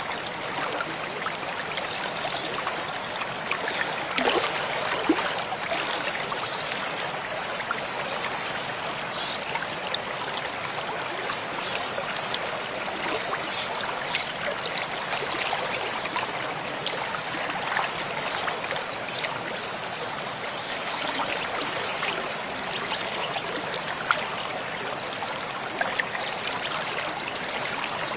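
Mountain stream flowing: a steady rush and trickle of water, with small splashes.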